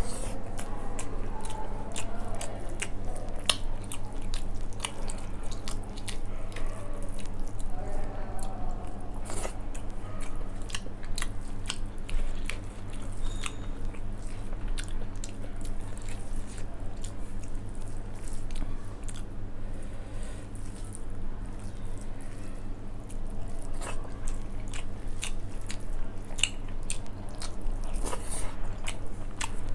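Eating sounds: chewing mouthfuls of rice with dal and soya chunk curry, and fingers mixing rice and dal on a steel plate. A steady run of small wet clicks and squelches.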